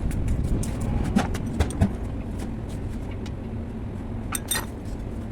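Steady low rumble with scattered knocks and metallic clicks of tool work on the car, the loudest knocks coming about one to two seconds in and a quick run of sharp clinks near the end.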